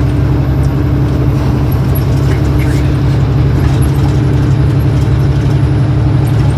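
Steady, even rumble of a car's engine and tyres on the road, heard from inside the moving car's cabin.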